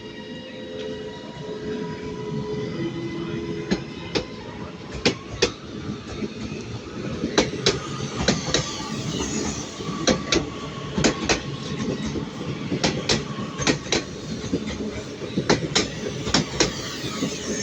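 Passenger train moving through the station over pointwork, its wheels clicking sharply and irregularly over rail joints and crossings. A steady electric whine sounds in the first few seconds.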